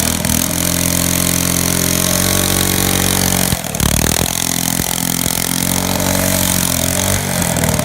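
Mini bike's single-cylinder Predator 212cc engine held at high revs during a burnout on the road, with a strong hiss over the engine note. About three and a half seconds in the note briefly drops and there are a few knocks, then the engine runs hard again and the revs fall near the end.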